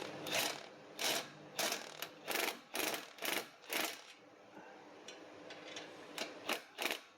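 Ratchet wrench tightening an exhaust pipe clamp, its pawl rattling on each stroke, about two strokes a second; the strokes pause in the middle and resume near the end.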